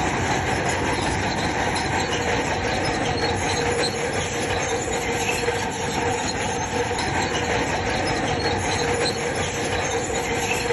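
Bulldozer working, its engine running with a steady metallic squeal and rattle from its steel crawler tracks.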